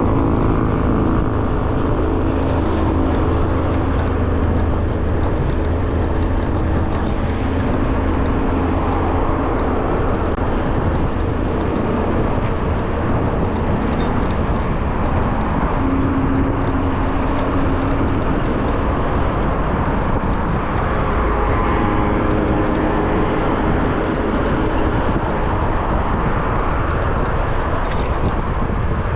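Steady rush of riding wind on the microphone of a moving electric bicycle, mixed with surrounding road traffic.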